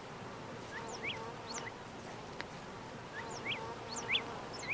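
Faint outdoor nature ambience: small birds giving short, high chirps in twos and threes, over a faint steady hum.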